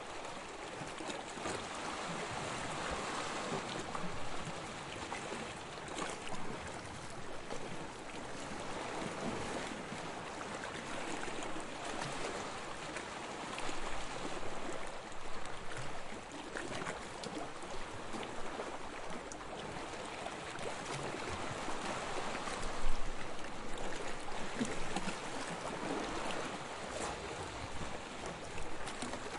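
Soft waves lapping on a sandy shore, each wash swelling and easing back every few seconds with a fizzing hiss. One brief, sharper, louder sound comes about three-quarters of the way through.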